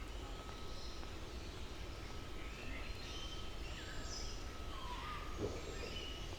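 Several birds chirping and whistling in short scattered calls, some gliding in pitch, over a steady low rumble and a faint thin steady tone.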